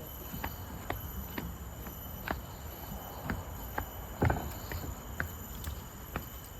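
Footsteps on a garden path, about two steps a second, with a louder thud about four seconds in. Behind them, insects in the forest keep up a steady high drone.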